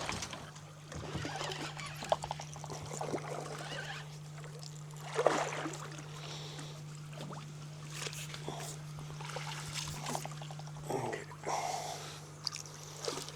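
Water sloshing and splashing beside a boat as a hooked catfish is brought alongside to be landed, with a stronger splash about five seconds in. A steady low hum runs underneath and stops about eleven seconds in.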